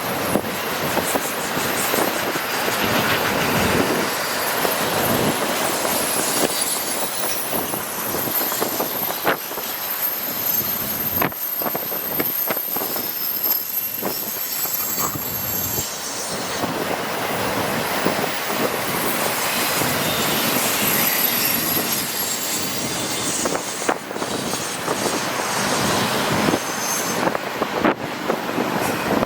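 Freight train of empty auto rack cars rolling past: a steady rush of wheels on rail, with high-pitched wheel squeal that comes and goes.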